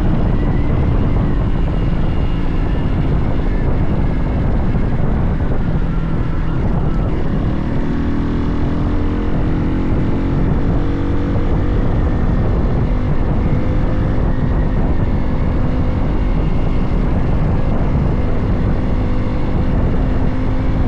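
Hero XPulse 200 4V single-cylinder motorcycle engine running under way, its note climbing slowly partway through, over heavy low wind rumble on the microphone.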